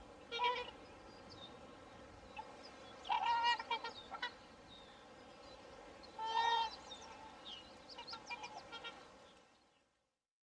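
Swans calling: three loud calls a few seconds apart over a steady background, then several softer calls before the sound fades out near the end.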